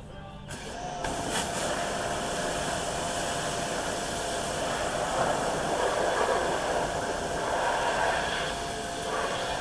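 A steady hissing rush of noise that starts about half a second in and keeps going.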